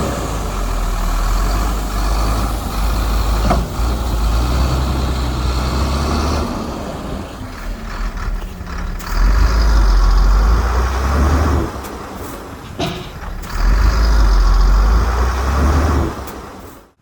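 Heavy diesel earthmoving machinery running under load, its deep engine rumble swelling three times and easing in between. The sound drops away sharply at the very end.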